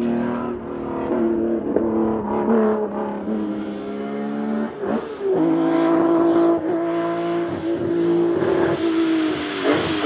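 Nissan 370Z's 3.7-litre V6 running under way at fairly steady revs, with a brief break and a change of note about halfway through, like a gear change.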